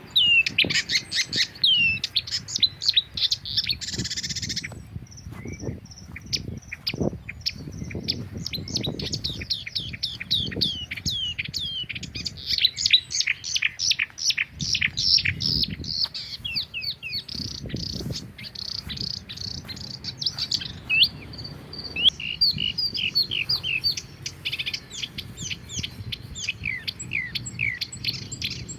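Songbirds chirping busily, a fast, continuous run of short, sharply falling chirps from several birds at once, over a faint low rumble.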